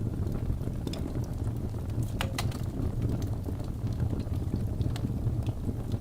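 Birch logs burning in a fireplace: a steady low rumble of the fire with scattered sharp crackles and pops, a few louder pops close together a little over two seconds in.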